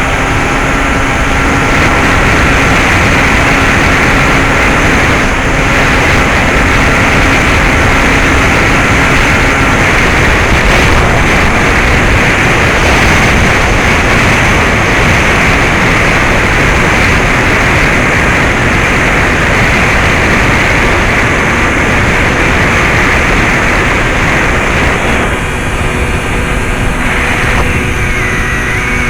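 Loud, steady wind noise over the microphone of a camera on a Bixler 2 electric RC plane in flight, mixed with the drone of its brushless motor and propeller. A faint steady tone in the drone drops away about ten seconds in. Near the end the rush thins and a few steady low tones come through.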